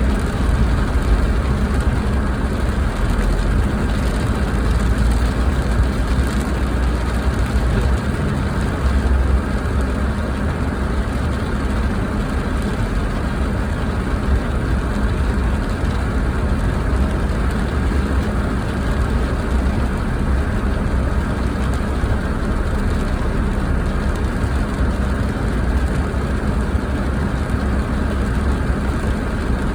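Steady car road and engine noise heard from inside the cabin while driving, a constant low rumble.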